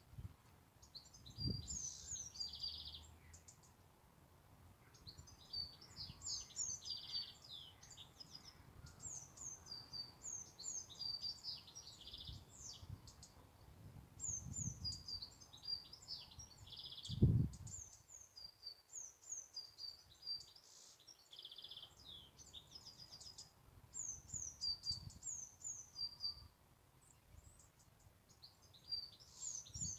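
A songbird singing: high-pitched phrases of about two seconds each, repeated with short pauses between them. A few low thumps sound under the song, the loudest about seventeen seconds in.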